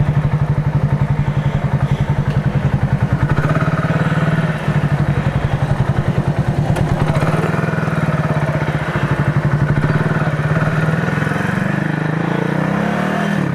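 Motorcycle engine running with a steady, even pulsing beat, its pitch rising slightly near the end.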